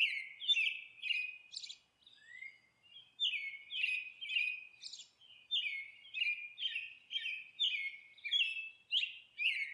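Bird chirping: short, high chirps repeated about twice a second, each dropping quickly in pitch, with a brief pause a couple of seconds in.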